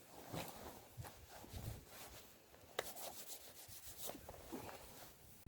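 Faint wood campfire crackling with soft scuffing and rubbing sounds, including a quick run of sharp crackles about three seconds in.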